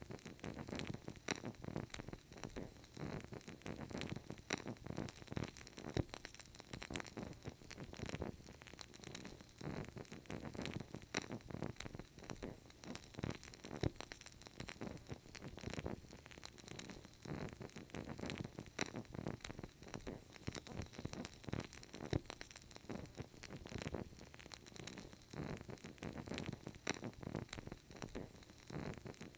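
Burning candle crackling softly: a steady patter of tiny clicks from the flame and wick, with an occasional louder pop.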